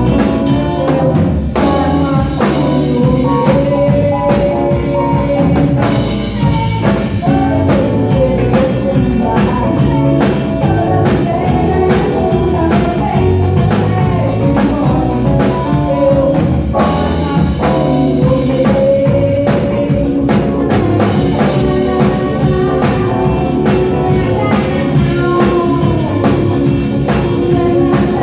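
A rock band playing live, with a drum kit keeping a steady beat under guitar and singing.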